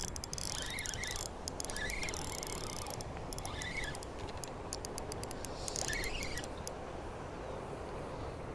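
Spinning fishing reel being cranked to bring in a hooked bass, with bursts of fine clicking. A short chirp repeats every second or two over a steady outdoor background.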